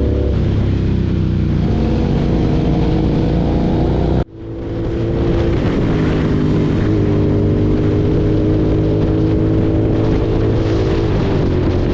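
BMW S1000RR sport bike's inline-four engine running under way, its pitch shifting up and down with the throttle. The sound cuts out abruptly about four seconds in and swells back within a second.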